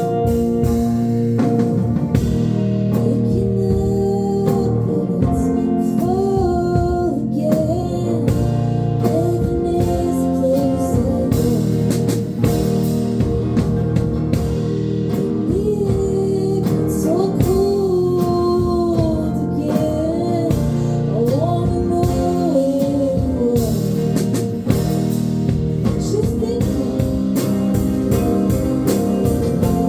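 A live band playing a song: a singing voice over electric guitar and drums, with sustained keyboard chords underneath.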